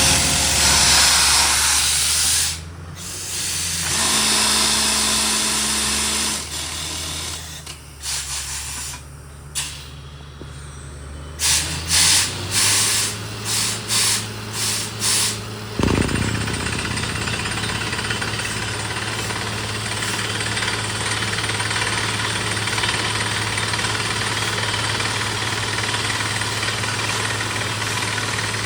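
Borewell drilling rig at work: a loud rush of air and hammering with an engine drone underneath for the first dozen seconds, then a run of short, sharp air blasts. From about sixteen seconds in, the rig's engine runs steadily with a low hum.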